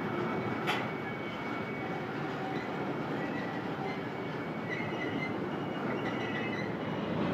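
Double-stack container freight train rolling past: a steady rumble of wheels on rail, with a sharp click about a second in and faint high wheel squeals in the second half.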